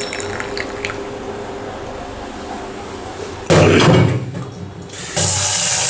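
Water from a kitchen tap gushing into a sink, turned on suddenly just past halfway for a short burst, then again near the end in a loud steady stream, over a low steady hiss.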